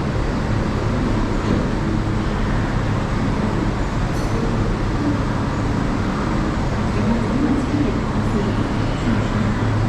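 MTR East Rail line R-Train electric train running, heard from inside the car: a steady rumble of wheels on rail with a constant low hum.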